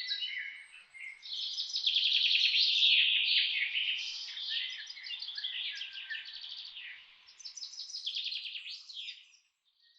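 Several birds singing together in a forest, a dense mix of rapid chirps and trills over a faint background hiss. The song fades out near the end.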